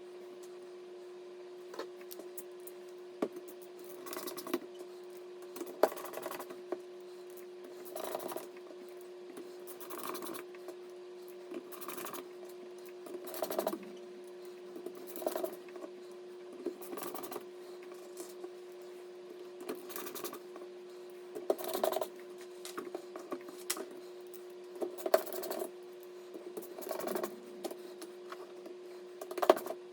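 Irregular light clicks, scrapes and rustles, every second or two, of hands handling and fitting PC components, over a steady hum.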